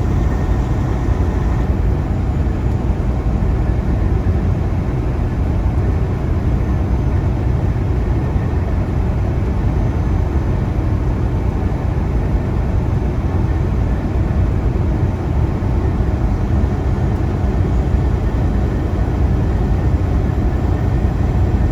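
Semi truck cruising on the highway, heard inside the cab: a steady low rumble of the diesel engine and tyre and road noise.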